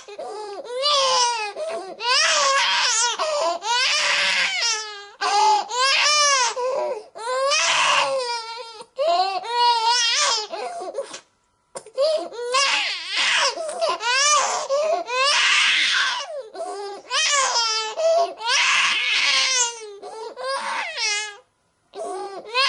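An infant crying hard in repeated wavering wails, each about one to two seconds long, with catches of breath between them. The crying breaks off briefly about halfway through and again near the end.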